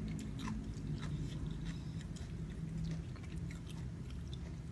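A person chewing food close to the microphone, with many short wet mouth clicks, over a steady low hum.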